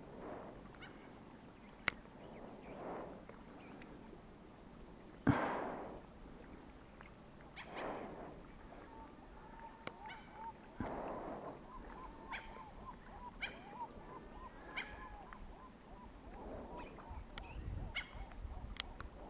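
Water lapping in swells against a rock, with a sudden knock about five seconds in. From about nine seconds in comes a run of short, repeated bird calls, with a few sharper, higher calls over them.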